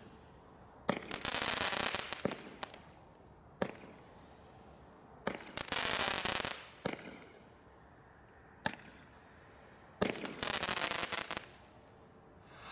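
Brightstar consumer fireworks going off: seven sharp bangs about one and a half seconds apart, several followed by a second or so of crackling hiss.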